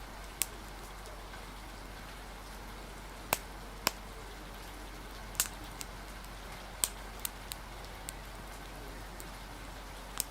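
Steady rain with a wood fire crackling, giving about nine irregular sharp pops over the rain.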